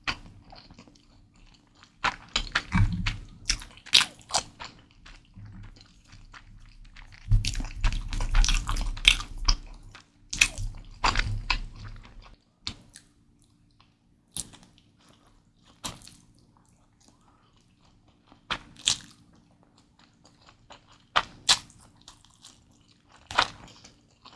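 Close-miked chewing of Mi Goreng fried instant noodles, with wet mouth clicks. The eating comes in two bursts in the first half, then thins out to scattered single clicks.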